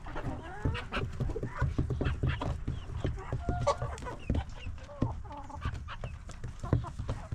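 Chickens clucking and calling, with short taps and scratches from the birds moving about.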